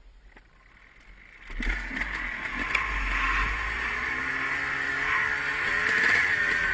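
Dirt bike engine running as the bike is ridden, coming in about a second and a half in after a quiet start; the revs rise and fall.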